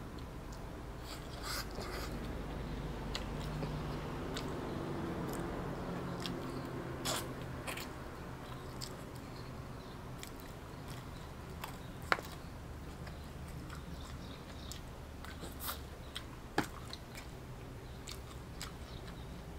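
Close-up eating sounds: biting into and chewing crispy fried chicken, with scattered crunches and wet mouth clicks. The two sharpest crunches come about twelve and sixteen and a half seconds in, over a low steady hum.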